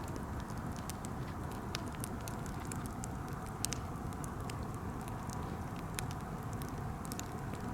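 Birch-wood campfire burning with a steady low hiss, scattered sharp crackles, and two louder pops, about three and a half and six seconds in.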